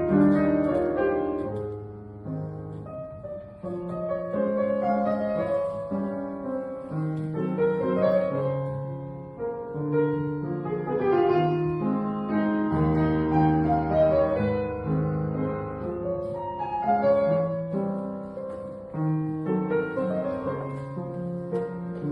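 Solo piano playing a slow, calm piece, notes and chords sustained and changing every second or so.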